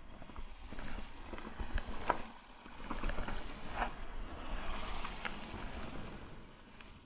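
Wind rumbling on the microphone along a mountain bike trail, with a few short clicks or rattles about two and four seconds in.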